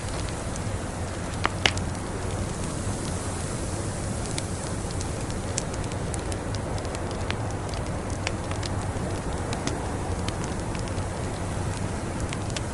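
Wood fire crackling with scattered sharp pops, two louder ones about a second and a half in, over a steady low rushing noise of blizzard wind.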